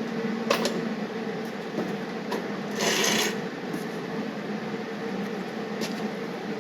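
Workshop handling noises: a click about half a second in and a brief rasping scrape about three seconds in, over a steady low hum.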